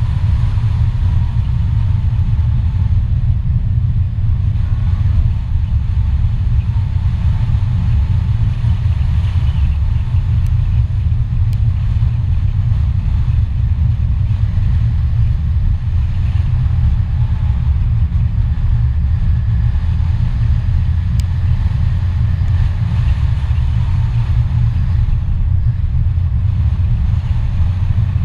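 Steady low rumble of a vehicle driving along a road, with fainter wavering tones higher up.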